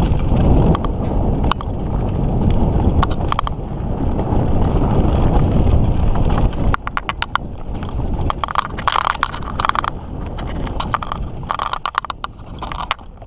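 Mountain bike riding on a dirt trail: wind buffeting the mic and tyres rolling, with sharp clicks and rattles from the bike over bumps. About two-thirds in the wind rumble eases and rapid clicking and clattering dominate.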